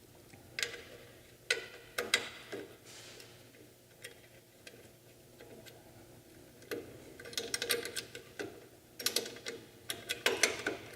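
Socket ratchet clicking as motor mounting bolts are tightened: a few single clicks at first, then quick runs of clicks in the second half.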